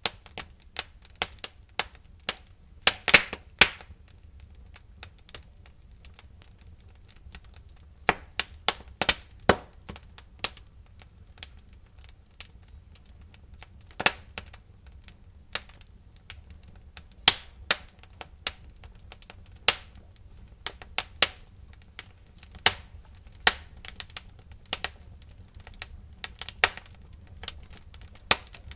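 Wood fire in a fireplace crackling, with irregular sharp pops, a few of them much louder than the rest, over a faint steady low rumble.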